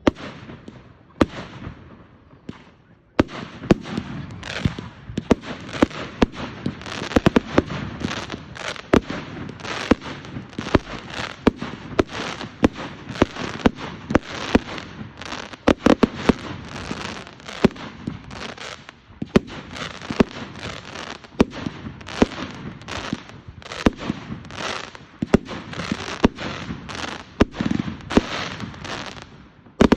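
Fireworks going off: a few separate bangs, then from about three seconds in a dense, continuous barrage of bangs and crackling.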